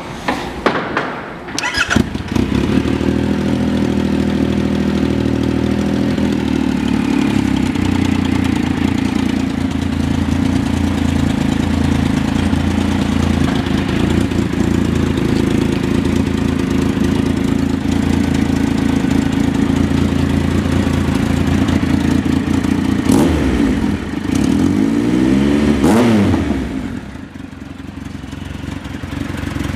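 The 2015 Triumph Trophy SE's 1215 cc three-cylinder engine turns over on the starter and catches about two seconds in, then idles steadily. Near the end it is revved twice, the pitch rising and falling each time, and it then settles back to a quieter idle.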